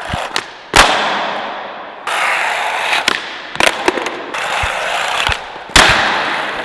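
Skateboard rolling on bare bearings instead of wheels across pavement, a loud gritty rolling hiss. Two sharp board slaps, about a second in and near the end (the loudest sounds), with a few smaller clicks between.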